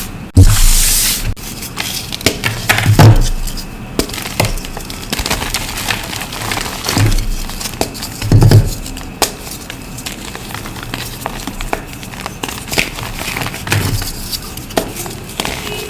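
Reformed blocks of dusty gym chalk being crushed: dense crunching and crackling, with a few heavier crunches standing out near the start, about three seconds in and about eight seconds in.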